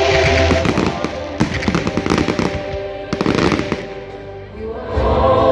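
Aerial fireworks bursting with many rapid crackling pops and bangs, thickest between about one and a half and three and a half seconds in, over music.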